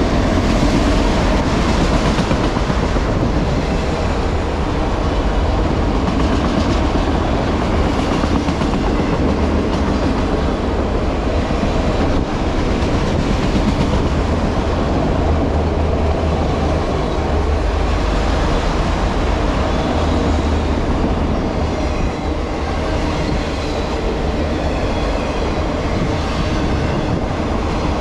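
Empty autorack freight cars rolling past at close range: steel wheels running on the rails in a steady rumble.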